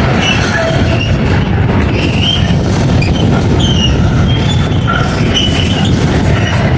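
Train rolling past with a steady heavy rumble, and short high-pitched squeals from the wheels on the rails scattered through it.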